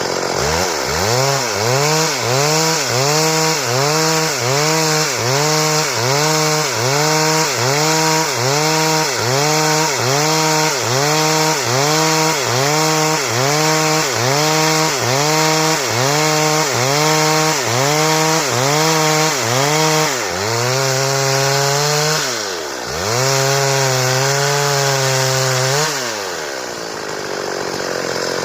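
Stihl two-stroke chainsaw cutting wood into boards, its engine pitch dipping under load and recovering in a steady rhythm a little more than once a second. Later it runs steadily at high speed with one sharp dip, then its pitch falls away near the end.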